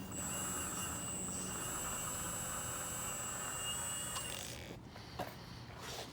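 Hydraulic pump of a MAGOM HRC 330D CAT radio-controlled excavator running with a steady high whine, starting suddenly and stopping about four and a half seconds in. A sharp click follows about a second later.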